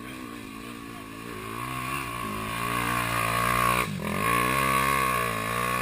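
Off-road vehicle engine revving under load, its pitch rising and falling as the throttle works and growing louder as it comes closer, with a short throttle lift about four seconds in.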